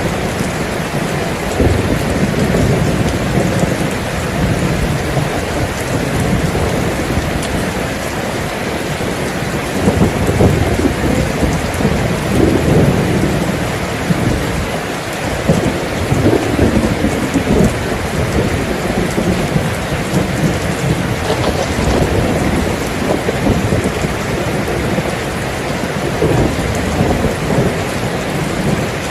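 Steady heavy rain falling, with low rolling rumbles of thunder that swell and fade several times.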